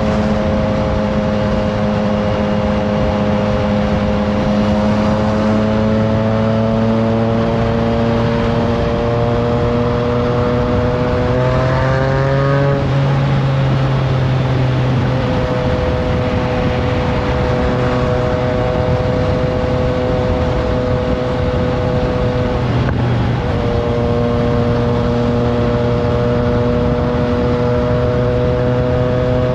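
Triumph Trident 660's inline three-cylinder engine running through a FireTong aftermarket exhaust, heard from on board while riding, with wind rush. The engine note climbs slowly, drops about halfway through, holds steady, then dips briefly and picks up again near the end.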